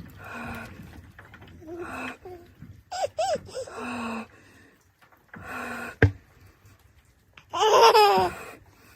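A baby babbling, squealing and laughing in short bursts, with one sharp click about six seconds in.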